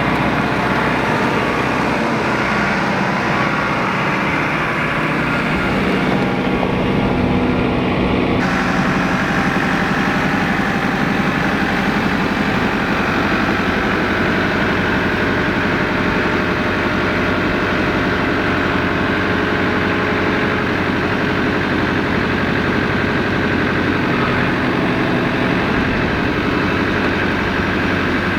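An engine running steadily, with an abrupt change in its sound about eight seconds in.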